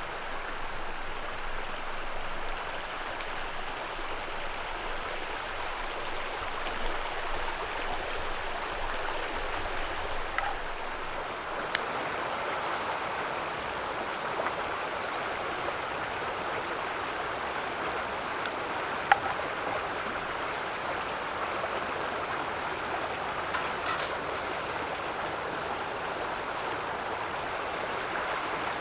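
A steady rushing noise, like running water, with a few sharp clicks, the loudest near the middle.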